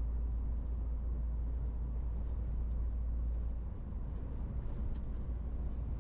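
MAN TGX 18.470 truck's diesel straight-six running on the move with road noise: a steady low rumble that eases slightly a little past halfway.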